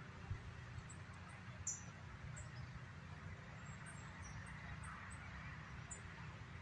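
Faint outdoor ambience: scattered short, high-pitched bird chirps over a steady low rumble.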